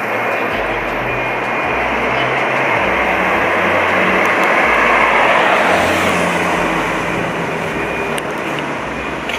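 Street traffic: a car passing, its engine and tyre noise swelling to a peak about five or six seconds in and then fading.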